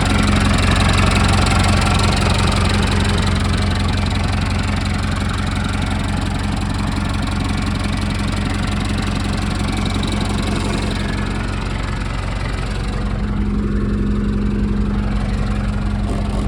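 A Massey Ferguson tractor's four-cylinder Perkins diesel engine running steadily. About twelve seconds in, the higher hiss fades and a steady low hum comes forward.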